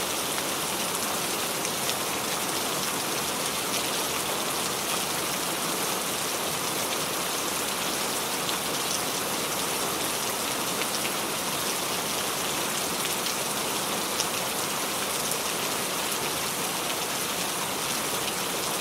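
Steady rain falling on a surface, a dense even patter with scattered faint drop ticks.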